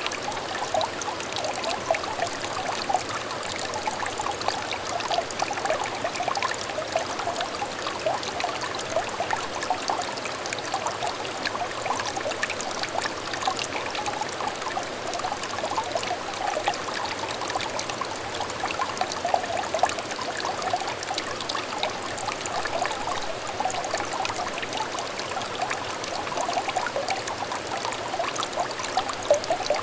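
A small, clear stream trickling and babbling steadily, with a dense patter of little gurgles that never lets up.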